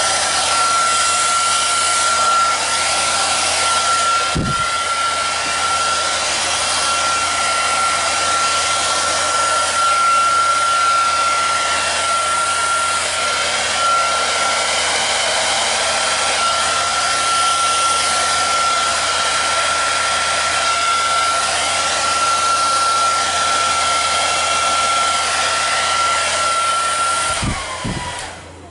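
Hair dryer blowing steadily with a high whine. It is switched off near the end, and the whine falls away as the motor winds down.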